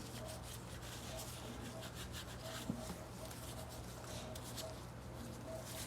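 Bristle brush scrubbing a Glock 19 Gen 5 pistol's lower receiver, faint repeated scratching strokes as dust is brushed off.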